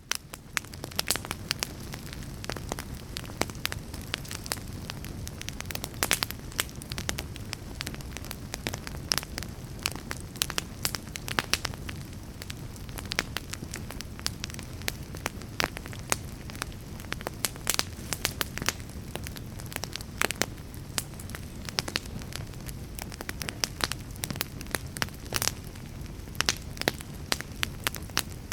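Wood fire crackling: irregular sharp pops and snaps, many per second, over a steady low rush of burning.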